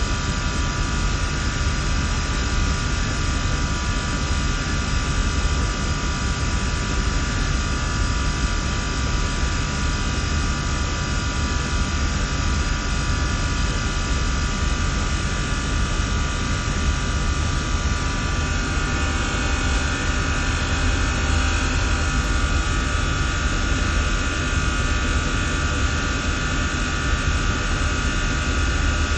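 Chiller and fan-coil HVAC machinery running: a loud, steady rush and low hum with several steady whining tones. About two-thirds of the way through, the mix of tones changes, one dropping out as others grow stronger.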